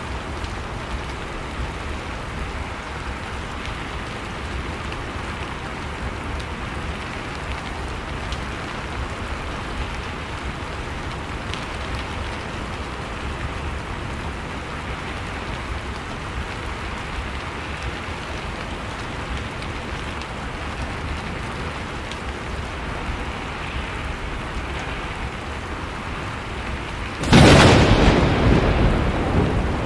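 Steady heavy rain falling, then a sudden loud thunderclap near the end that rumbles on as it slowly fades.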